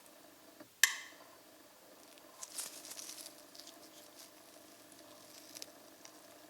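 A single sharp metallic clink that rings briefly, about a second in, followed by soft crackling and a few light clicks of metal parts being handled at the oil-film test rig, over a faint steady hum.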